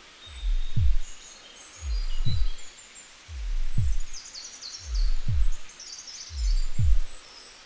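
Slow heartbeat sound effect: a low double thump about every one and a half seconds, five beats in all. Small birds chirp high above it, busiest around the middle.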